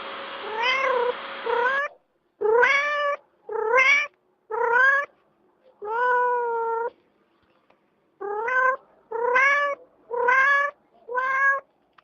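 A cat meowing repeatedly, about ten short calls that mostly rise in pitch, with one longer meow about six seconds in.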